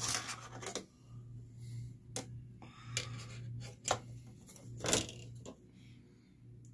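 Plastic laptop parts clicking and tapping as they are fitted together during reassembly of an Acer Aspire laptop's screen, a few separate sharp clicks over a low steady hum.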